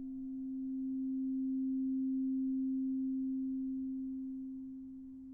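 One steady, pure, ringing tone from a sound-healing instrument, held without a break, slowly swelling and then easing off in loudness.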